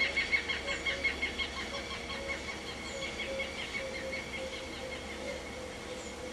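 Birds calling: a rapid run of high chirps, about four a second, that fades over the first three seconds, over lower short notes repeating throughout.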